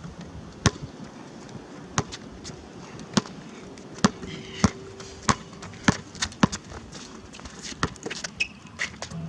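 Basketball bouncing on a hard court: a string of sharp, slightly irregular bounces, about one every half second to a second.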